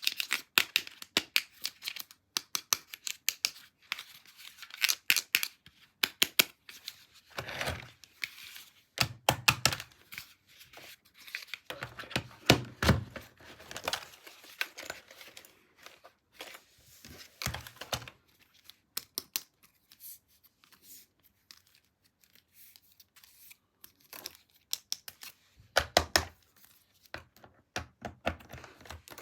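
Toy packaging being handled and opened: plastic and paper crinkling and tearing, with many sharp clicks and taps in irregular bursts. A quieter stretch comes about two-thirds of the way through.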